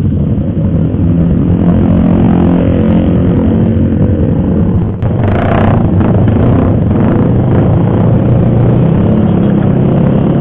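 Sport motorcycle engines running steadily close by, with a short louder burst about five seconds in.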